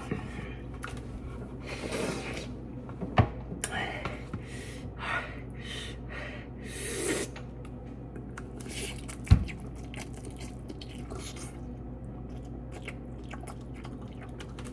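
A person eating spicy instant noodles close to the microphone: chewing and slurping in scattered short bursts, with a sharp knock about nine seconds in.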